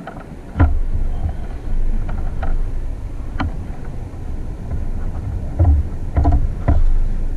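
Handling noise on a kayak: a steady low rumble with about five sharp knocks scattered through it, the loudest about half a second in and near the end.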